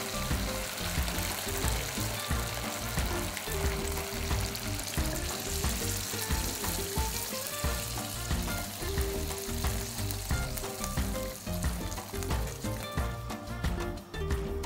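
Poultry and tomato sauce sizzling in a pot, with some stirring; the sizzle fades near the end. Background music plays with a steady beat.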